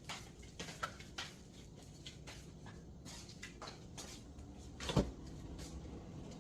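Household clicks and knocks, like a refrigerator door and the things inside it being handled: a string of light clicks and taps, with one heavier thump about five seconds in.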